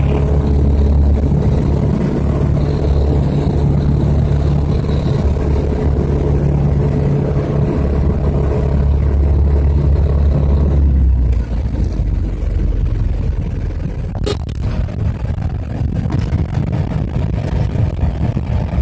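Aircraft engine and airflow noise on landing: a loud, steady rumble with a low hum. About eleven seconds in the heavy low rumble drops away, and a single sharp knock comes about three seconds later.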